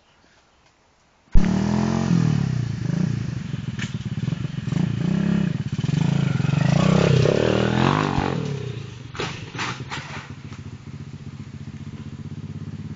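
Small pit bike engine, starting abruptly about a second in and revving up and down several times, highest around seven seconds in, then dropping back to a steady idle. A few sharp clicks come as the revs fall.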